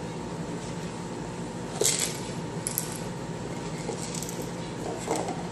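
Eclectus parrot working at a loosely lidded bowl of dry noodles with its beak: a few sharp clinks and rattles, the loudest about two seconds in, over a steady background hum.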